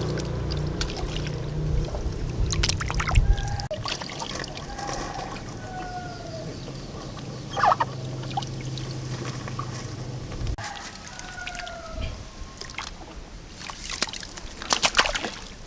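Water pouring and trickling from a homemade waterfall fountain, with a low hum that cuts off about ten seconds in.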